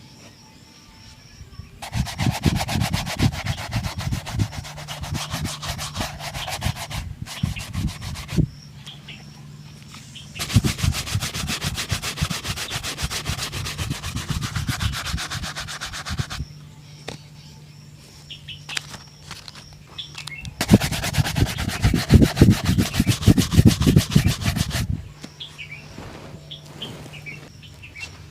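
Leather shoe being buffed to a shine with fast back-and-forth rubbing strokes, in three bursts of several seconds each with short pauses between them.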